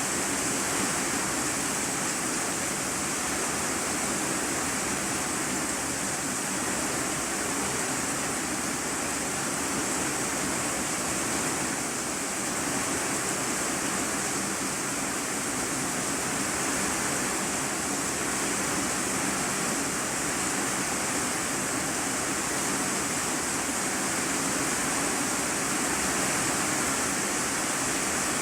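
Heavy rain drumming steadily on a corrugated iron sheet roof, heard from the room beneath as a dense, even hiss.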